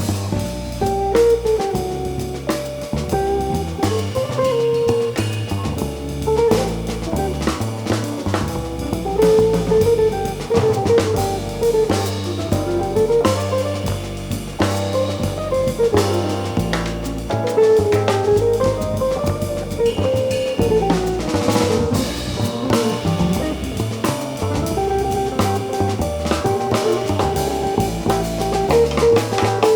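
Live jazz band playing: a guitar melody line over a stepping bass line and a drum kit, with cymbal strikes throughout.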